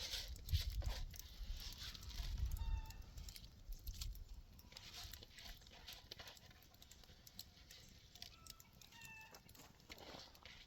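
Chickens making a few short, faint clucking calls, twice, among scattered light clicks and rustling; a low rumble fades out over the first few seconds.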